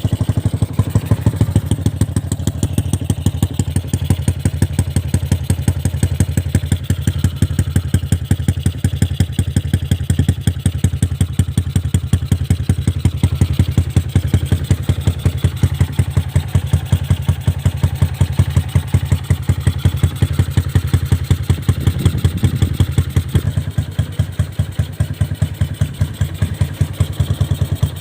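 A Yamaha LC135's single-cylinder four-stroke engine, bored out with a 60 mm big-bore block, idling steadily through an aftermarket Espada E5 exhaust, with a fast, even exhaust pulse.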